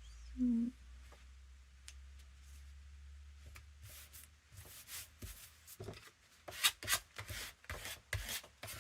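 Paper being handled on a desk: sheets rustling, sliding and being rubbed down in quick irregular strokes that thicken in the second half. A short hum from a person about half a second in.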